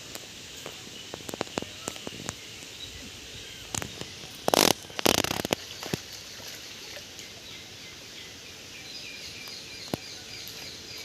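Steady outdoor ambience with scattered faint clicks and two short loud rushes of noise about four and five seconds in. Near the end a bird gives a rapid run of high chirps.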